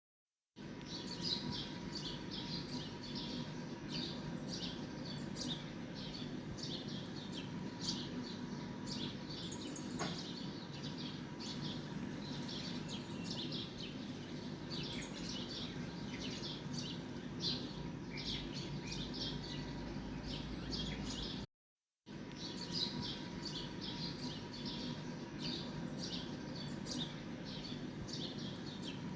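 Small birds chirping continuously, with many short high chirps several times a second over a faint steady hum. The sound cuts out completely for about half a second a little past the two-thirds mark.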